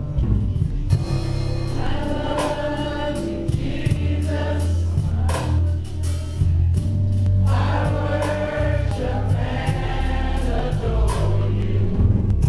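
Gospel choir singing over a band with a strong, sustained bass line.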